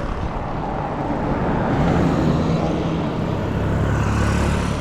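Street traffic: a motor vehicle engine running close by, growing louder about two seconds in and settling into a steady low hum near the end, over general street noise.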